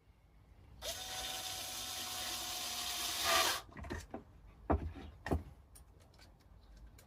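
A small power tool runs steadily for about three seconds and stops, followed by three sharp knocks and a few lighter taps on wood.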